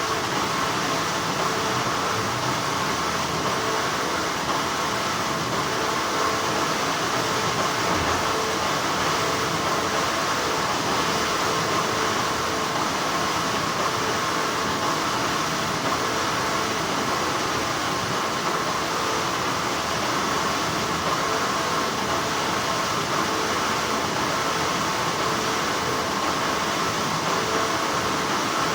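Steady, continuous hum of textile factory machinery: an even noise with a couple of faint steady tones running through it.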